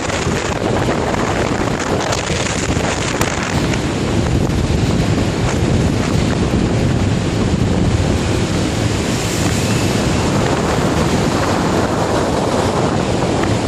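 Strong typhoon wind and heavy sea, with the wind buffeting the microphone: a loud, steady rush of noise that keeps up without a break.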